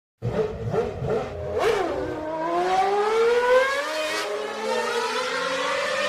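Racing car engine accelerating: after a few brief changes of pitch, the engine note climbs steadily for about two seconds, then holds at a high, even pitch.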